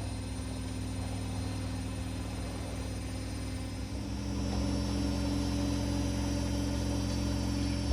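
A small electric motor running with a steady hum, shifting slightly in pitch and getting a little louder about four seconds in.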